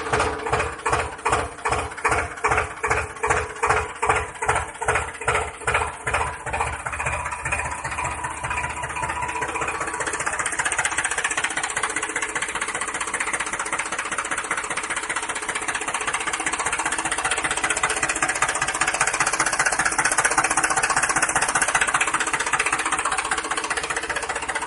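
Small engine or motor running, with regular thumps at about two to three a second that speed up over the first ten seconds until they merge into a steady buzz.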